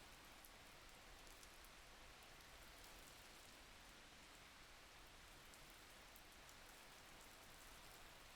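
Faint, steady rain: an even hiss with scattered tiny high drop ticks.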